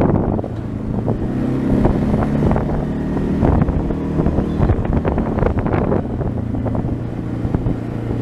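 A 230 cc trail bike's engine running steadily under way on a rough dirt road, with wind buffeting the microphone and many short knocks and rattles from the bumps.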